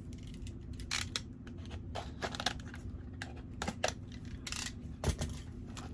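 Packaging being handled and opened: scattered short rustles and light clicks over a steady low hum.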